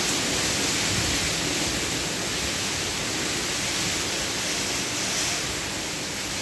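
Heavy hurricane rain pouring down with wind, a steady, even hiss.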